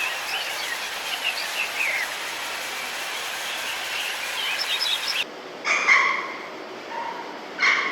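Small birds chirping repeatedly over a steady outdoor hiss. After an abrupt cut come two short, loud animal calls about two seconds apart.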